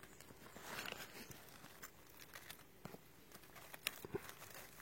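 Faint scattered clicks and a brief rustle about a second in, with no speech.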